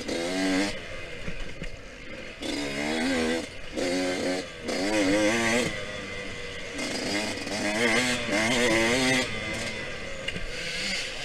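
Yamaha YZ125X 125cc two-stroke dirt bike engine revving hard in repeated short bursts, its pitch rising and falling as the throttle is opened and shut, with rushing wind and track noise underneath.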